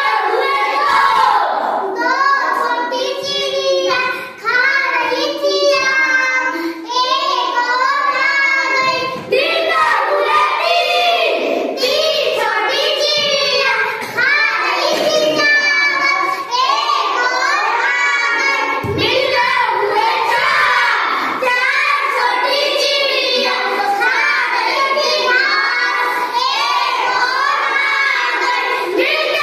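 A child singing a song in a high voice, line after line with short breaths between phrases.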